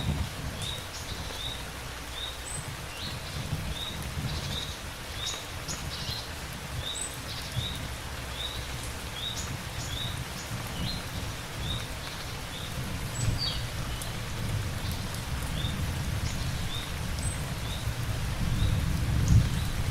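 Steady rain with a low rumble underneath. Over it a bird repeats a short, high, upward chirp about twice a second.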